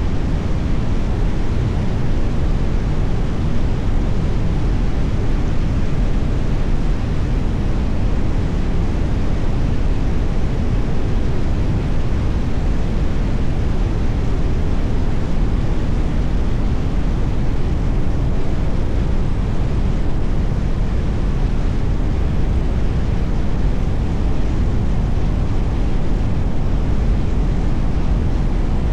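Steady rumble of road and wind noise from a car driving, with tyre roar strongest in the low end and no distinct events.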